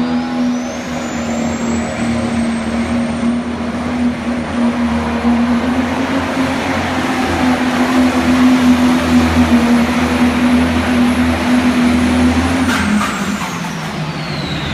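Case IH Puma Pro Stock pulling tractor's turbocharged diesel engine running at full power down the track. A high turbo whine climbs in pitch over the first couple of seconds, then holds. About 12.5 seconds in, the throttle comes off: the engine note drops and the whine winds down.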